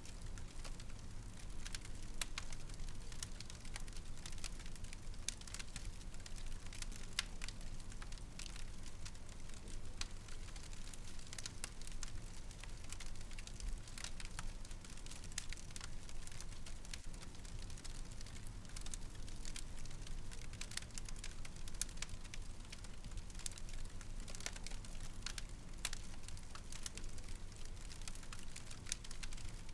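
Fire burning in a fireplace, crackling with frequent small, irregular pops and snaps over a steady low rumble.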